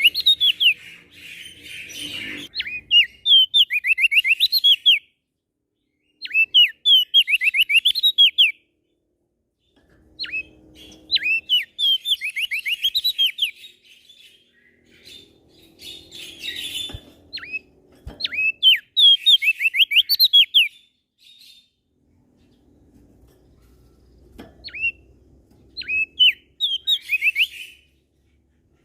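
Crested white-eye (opior jambul) singing in full song: repeated phrases of quick, downward-slurred whistled notes, each phrase about two seconds long, with short pauses between them.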